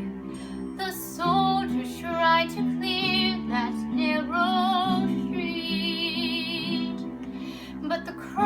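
A young woman singing a slow song with vibrato on held notes, over a sustained instrumental accompaniment.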